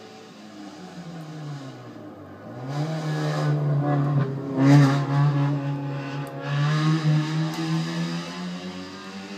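A car engine running at a steady low pitch. The pitch drops about a second in, then holds, and the sound grows louder from about three seconds in, with a few sharp knocks near the middle.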